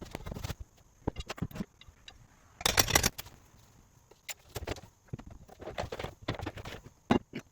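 Irregular knocks, clicks and scrapes of demolition work on a wooden door frame, with one longer, louder scrape about three seconds in.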